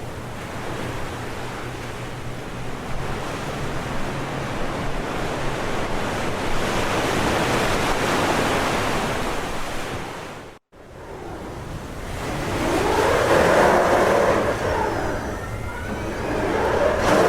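City ambience recording: a steady wash of outdoor noise that swells and fades, with a low hum at first. It cuts out abruptly about ten and a half seconds in, and a second, louder ambience takes over and swells twice.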